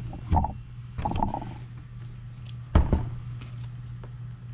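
A few short knocks and rattles of small parts being handled, the sharpest and loudest near the three-second mark, over a steady low hum.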